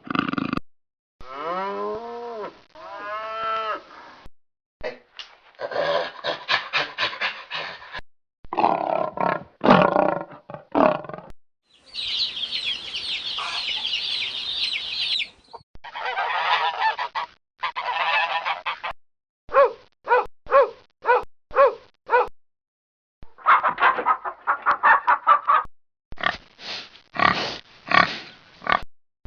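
A run of recorded animal calls of several different kinds, played one after another with short silent gaps between them. Some are drawn-out pitched cries, one is a dense high-pitched chatter, and some are quick repeated short calls.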